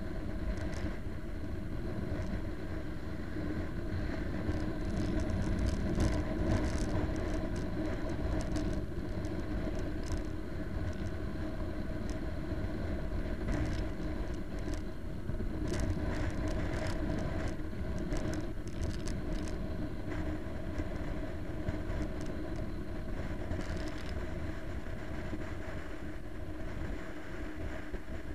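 Motorcycle engine running at a steady pace under a low rumble of wind on the microphone, with scattered sharp clicks here and there.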